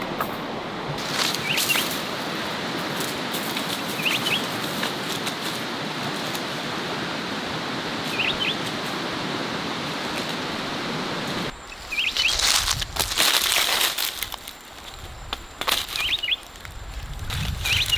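Steady rushing outdoor background with a small bird giving a short chirp about every two seconds. About two-thirds through, the rushing stops abruptly and gives way to close rustling, crinkling and clicking handling sounds.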